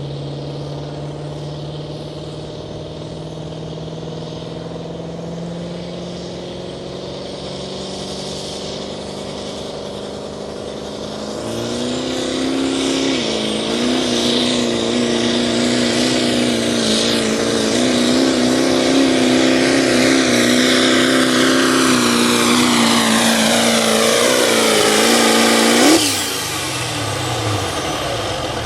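A competition puller's engine runs steadily, revs up about eleven seconds in and is held at high revs under load. Near the end it cuts off suddenly and winds down with a falling whine.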